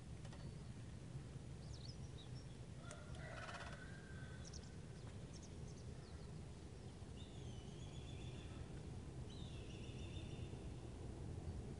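Wild birds calling faintly over a steady low outdoor rumble: a few high chirps about two seconds in, a harsher call around three seconds, and two longer, slightly falling calls around seven and nine seconds in.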